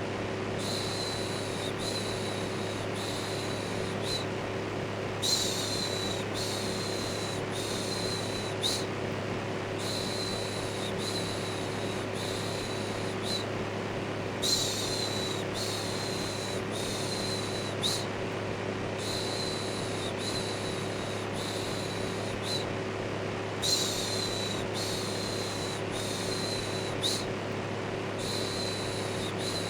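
Steady electric fan running with a low hum under its whoosh, overlaid by rhythmic shushing: short 'shhh' sounds repeated in runs of four or five, with a brief pause between runs.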